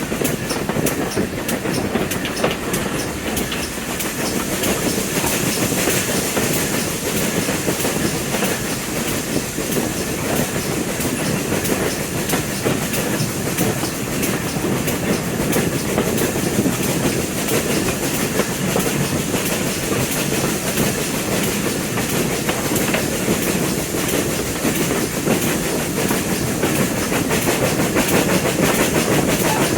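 Train running along the track: a steady rumble of wheels on rail, with rapid fine clicking throughout.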